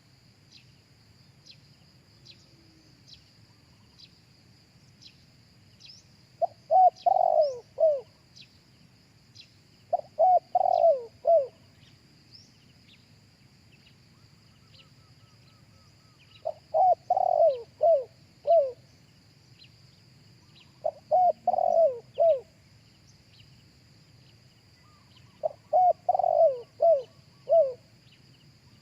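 Spotted dove cooing: five phrases of four or five quick coo notes, each phrase about a second and a half long, repeated every four to six seconds.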